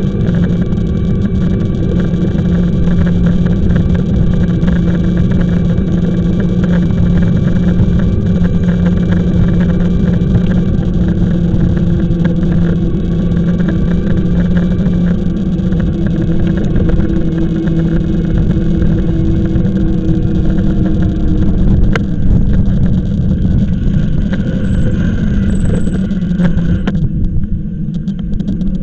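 Riding noise from a moving e-bike: wind rushing over the camera microphone with a steady low hum underneath, and a single sharp click about three-quarters of the way through.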